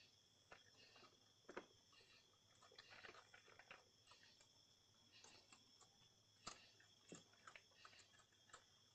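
An animal eating dry pet food: faint, irregular crunches and clicks of kibble being chewed.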